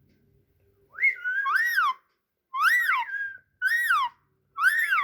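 Pet talking parrot giving four high, whistle-like calls, each gliding up and then down in pitch.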